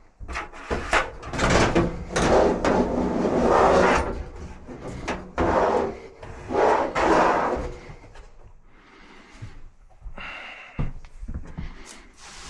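Dryer parts being handled: a run of scraping and sliding sounds broken by sharp knocks and clunks.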